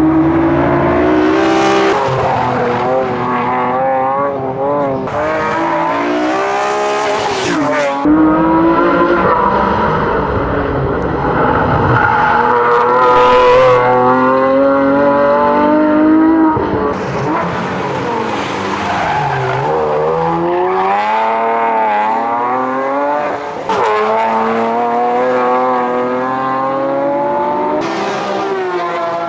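Nissan 370Z NISMO's 3.7-litre V6, breathing through PPE long-tube headers and an x-pipe, driven hard on track. Its pitch climbs, drops and climbs again repeatedly as the car accelerates, shifts and brakes through the corners.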